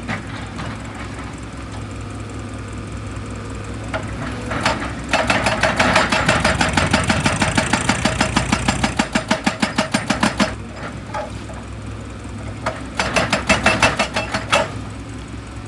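Heavy diesel machine engine running steadily, broken by spells of rapid rhythmic pounding at about four to five blows a second: a long spell in the middle and a shorter one near the end.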